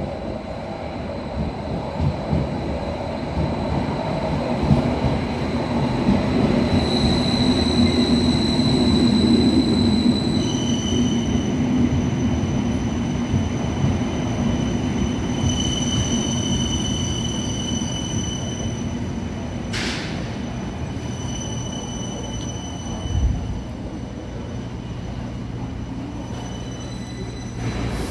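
Berlin U-Bahn train running, its rumble swelling to a peak about a third of the way in and then easing off, with high steady wheel squeal that comes and goes. A short sharp click comes about two-thirds of the way in, and a thump a few seconds later.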